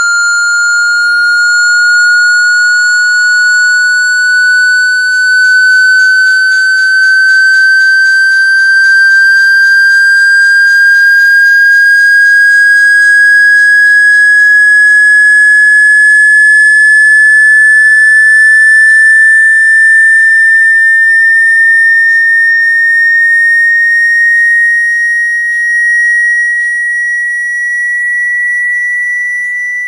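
A loud electronic test tone, one clean whistle-like pitch gliding slowly and steadily upward. It is a water-eject sweep, played to vibrate water out of a phone's speaker.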